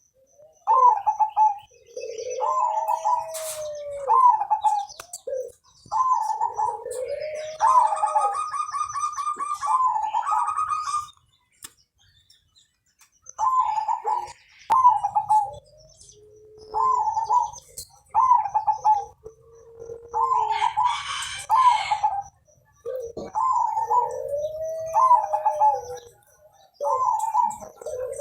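Zebra dove (perkutut) singing its cooing song over and over: each phrase a few quick clipped notes ending in a longer, lower arched coo, with a pause of about two seconds midway. A rapid run of chirps sounds about a third of the way in.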